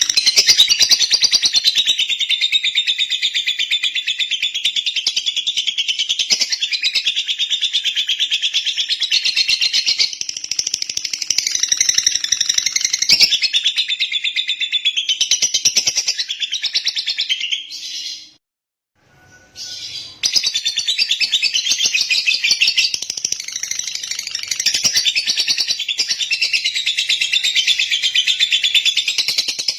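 Lovebird singing: a long run of rapid, high chirping chatter, with a pause of about two seconds roughly two thirds of the way through before it starts again.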